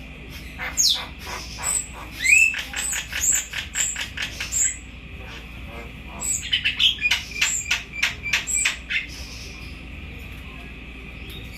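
Red lory calling: a downward-sweeping whistle, then two runs of sharp, rapid chirps, with a quieter stretch near the end.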